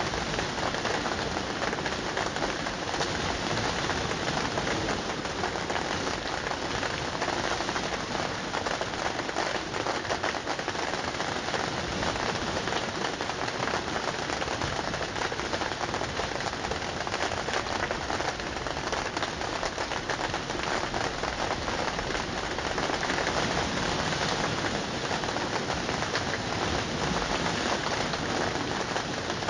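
Steady heavy rain falling on a surface, a dense even patter without a break.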